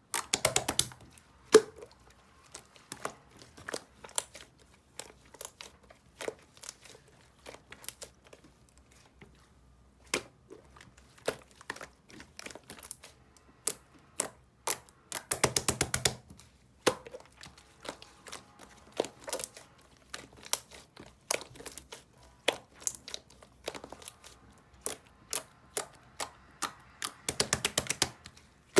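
Close handling sounds: scattered sharp taps and crinkles, with three bursts of rapid clicking, one about half a second in, one midway and one near the end.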